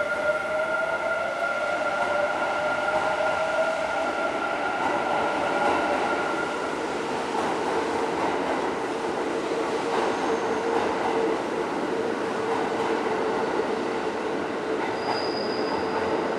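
Hanshin electric train running, a steady rushing rumble with whining tones from its motors or wheels; a high whine fades out partway through while a lower one holds on.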